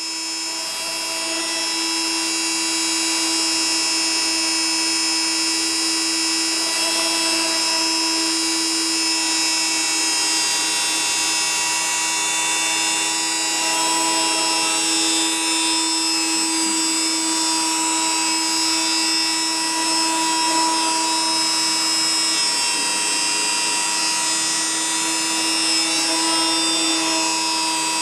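Hobby CNC machine running: a steady high motor whine with a hiss, rising over the first couple of seconds, with a tone that comes and goes every few seconds as it works.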